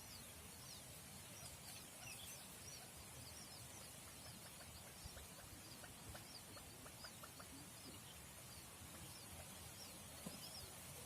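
Faint, high, arching peeps from buttonquail chicks, repeated irregularly several times a second, with a few soft ticks in the middle.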